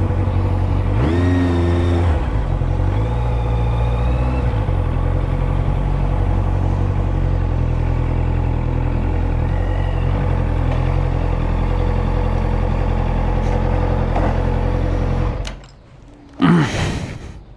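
Honda CB650F inline-four motorcycle with a carbon exhaust being ridden: a steady engine note with wind noise and a couple of brief rising revs in the first few seconds. The sound drops away about 15 seconds in, and a short loud sweeping sound follows near the end.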